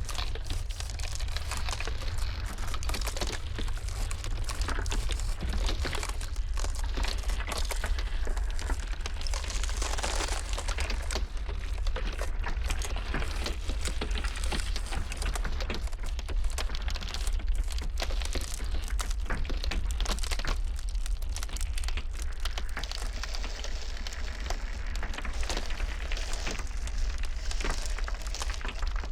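Iceberg ice cracking and crackling continuously, a dense run of small sharp cracks, over a steady low rumble of blizzard wind.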